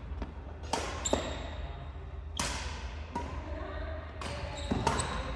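Badminton rally: about six sharp smacks of rackets striking the shuttlecock, irregularly spaced, echoing briefly in a large hall.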